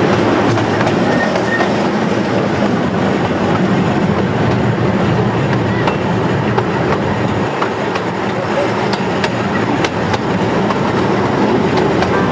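Steady rumble and rattle of the Casey Jr. Circus Train's small open cars rolling along the track, heard from on board, with a few sharp clicks scattered through it.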